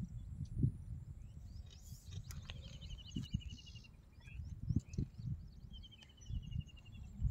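Wild birds chirping. One bird gives a rapid, even trill of about a second, twice, over a low rumble with a few dull knocks from a catfish being handled and unhooked with pliers.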